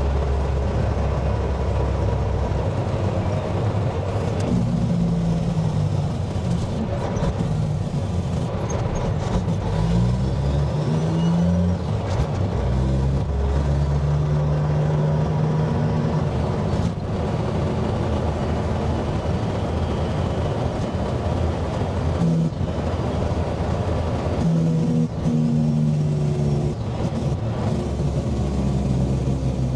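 Dump truck's diesel engine under way, its pitch climbing and then dropping back several times as it runs up through the gears.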